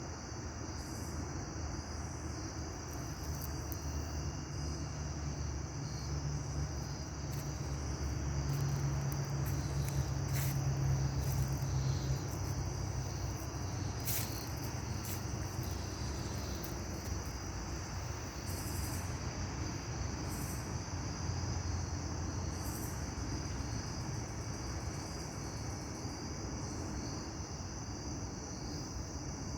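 Steady chorus of insects in the evening, a continuous high-pitched trill, over a low rumble that swells for a few seconds near the middle.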